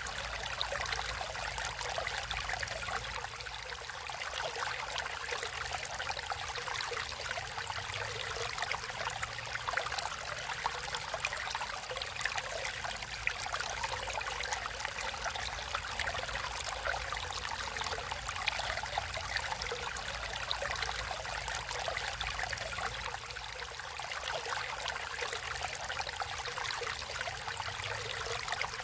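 Natural running water flowing steadily: a continuous, even rush with fine trickling detail and no pauses.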